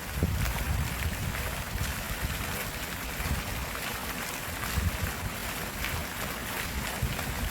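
Stream water running with a steady rushing, splashing noise, with an irregular low rumble underneath from wind on the microphone.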